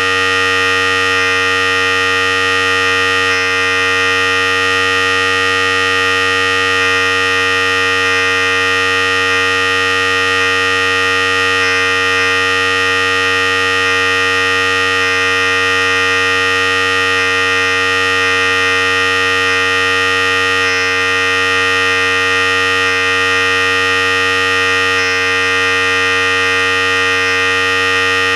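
Philips Series 5000 electric hair clipper running steadily with an even hum that does not change in pitch or loudness.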